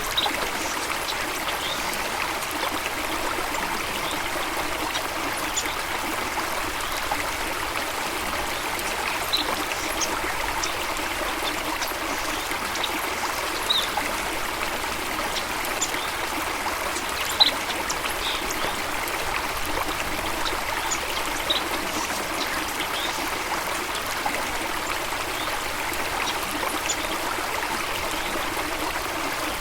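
Flowing stream water running in a steady, even trickle and rush. Short high chirps, bird calls by the video's title, come and go over it, one standing out about 17 seconds in.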